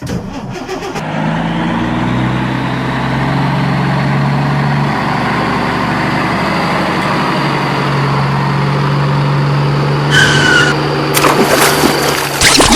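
Steady engine-like motor sound, running at an even level, with a brief high tone about ten seconds in and quick sweeping sounds near the end.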